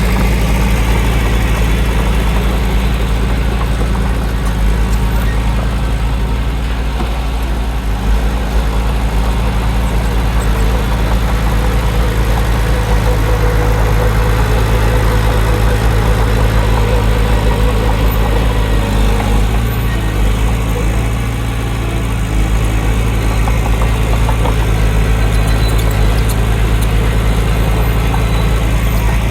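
Diesel engine of heavy earthmoving machinery running steadily, a low even drone.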